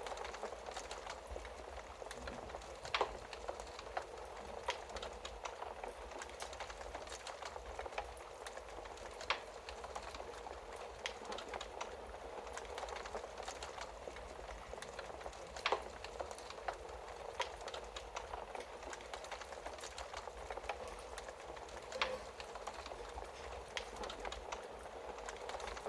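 Wood fire burning in a fireplace: a steady hiss of flames with frequent small crackles and a few louder, sharp pops several seconds apart.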